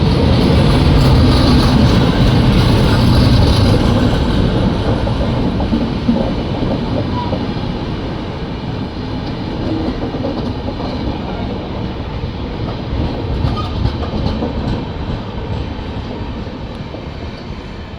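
Train running on the track, loudest over the first few seconds and then slowly fading.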